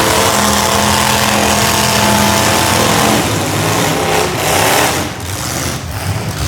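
Several V8 demolition-derby cars' engines running loudly at high revs, pitch shifting up and down.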